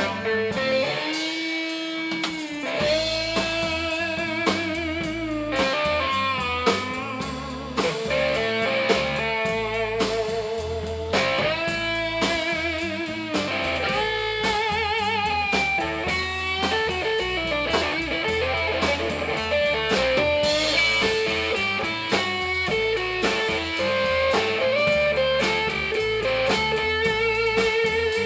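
Blues-rock band playing an instrumental break: an electric guitar solo with bent, wavering held notes over drums and bass.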